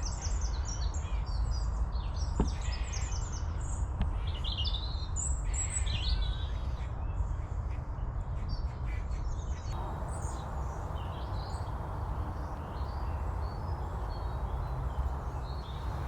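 Small birds chirping and calling with many short, high notes, busiest in the first half and thinning out later, over a steady low rumble.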